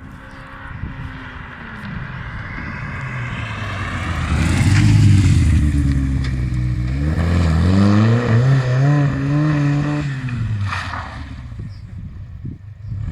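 Škoda 130 RS race car with a racing engine driving by at full throttle. The engine note climbs and grows loud, drops at a gear change about six or seven seconds in, and climbs again. It then falls away about ten seconds in as the car backs off and fades.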